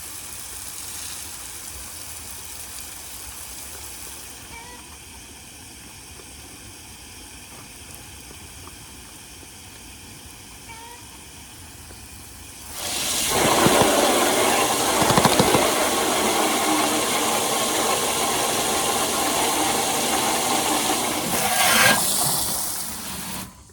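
Water running hard from a hose into a livestock water container, starting about halfway through and cutting off suddenly just before the end.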